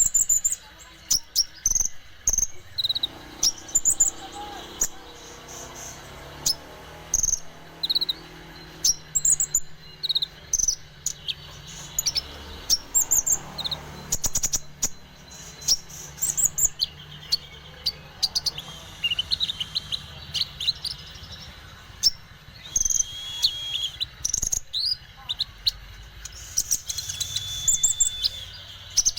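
Konin bird calling vigorously: short, sharp, high chirps about once a second, coming in quicker clusters in the last third.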